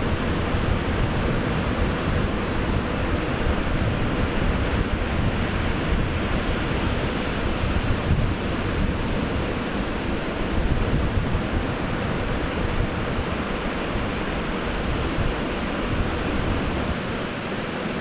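Pacific surf washing in steadily, with wind buffeting the microphone in heavy low rumbles.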